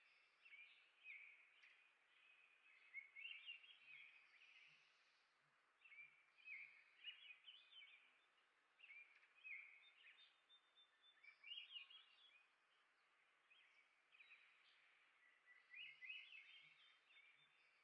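Small songbirds chirping and singing faintly in short, quick warbled phrases that come every few seconds, over a low steady background hiss.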